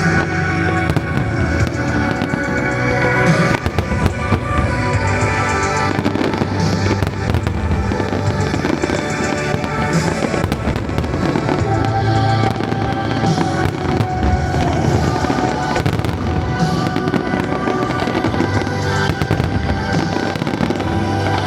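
Fireworks bursting over and over at irregular intervals, layered over loud recorded music played for a synchronized pyromusical show.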